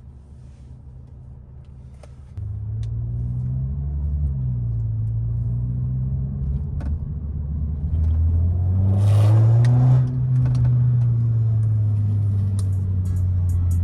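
Muffler-deleted Audi A3 (8Y) exhaust coming on loud about two seconds in as the car accelerates. Its pitch rises and falls with the revs, climbing to its loudest around ten seconds in, then a brief dip before it holds steady.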